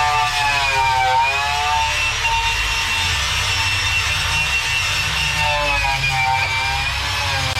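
Handheld electric power tool, such as a sander or wire wheel, running steadily with a high whine. Its pitch sags about a second in and again near the end as it is pressed into the car's steel floor pan.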